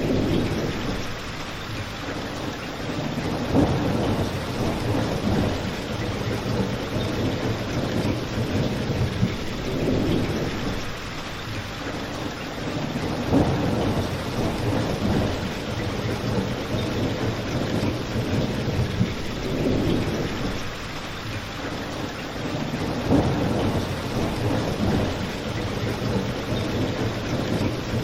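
Steady rain, with a fireplace crackling now and then in short sharp pops. Low rumbling swells come and go every few seconds.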